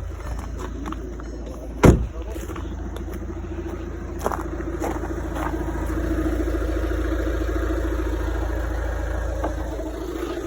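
2014 Volkswagen Golf TDI's 2-litre four-cylinder turbodiesel idling steadily, getting a little louder about halfway through. A single sharp clack about two seconds in.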